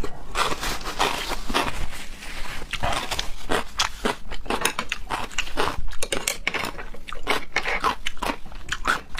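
Person eating: crunching bites and chewing, a dense run of sharp crisp clicks several times a second.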